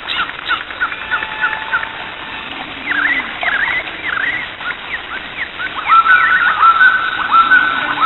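Birds chirping: many short, repeated chirps, with a quicker run of calls over the last two seconds.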